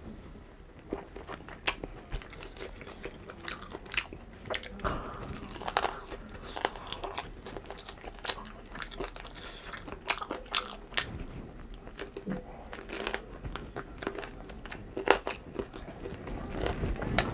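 A person chewing and biting food, with irregular crisp crunches and wet mouth clicks.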